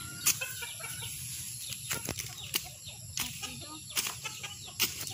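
Chickens clucking faintly, with a scatter of irregular sharp taps and clicks over a steady low rumble.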